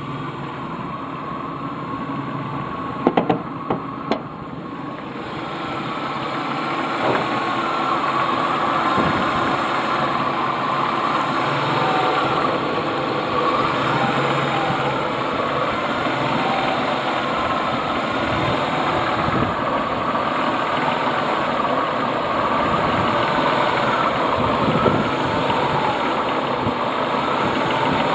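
Ford EL Fairmont Ghia engine idling roughly in the engine bay, with a few sharp clicks about three to four seconds in. The car runs rough at idle on both LPG and petrol and stalls often, which the owner suspects comes from a faulty engine computer or distributor.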